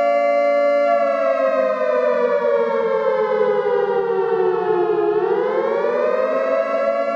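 A long, loud siren-like tone with many overtones: held steady for about a second, it slowly slides down in pitch, then rises back near the end.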